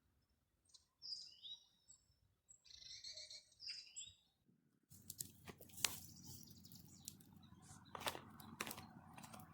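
A small songbird chirping in short, high calls that slide in pitch. About halfway through, the background abruptly gets louder, with a run of scattered sharp clicks and knocks.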